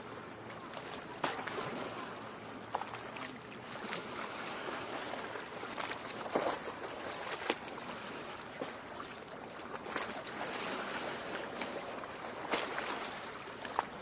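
Small waves lapping at a lake shore: a steady wash of water broken by frequent small irregular splashes and slaps.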